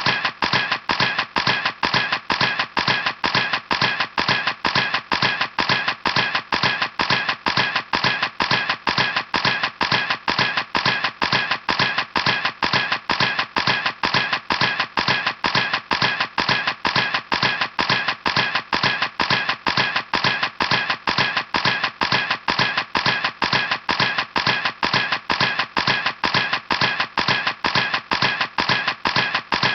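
Camera shutter clicking over and over in a steady, even rhythm.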